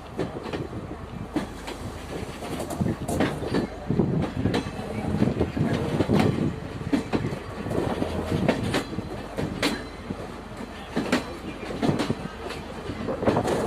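Railway carriage running along the track, wheels clattering over rail joints with an irregular clickety-clack over a steady rumble.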